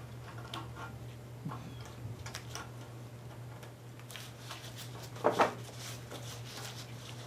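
Light handling noises, small clicks and scrapes of tools on the work, over a steady low hum, with a brief louder double knock about five seconds in.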